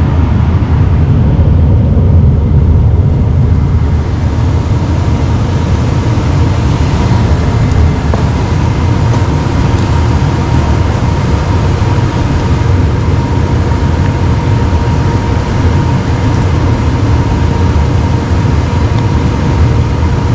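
Trane gas furnace running: a loud, steady rumble of its blower and burners, with a faint steady whine above it.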